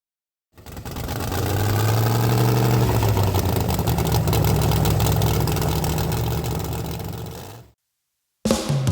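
A car engine running with a steady, low pitch and slight changes in speed, fading in after half a second and fading out near the end.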